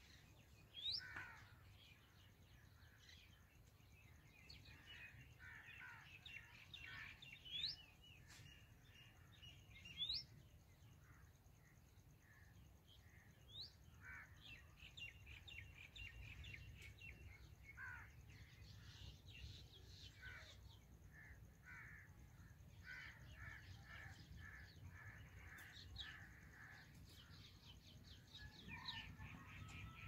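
Faint bird calls: several short, sharply rising whistled notes, the loudest sounds, scattered through, with runs of quick chirps in between.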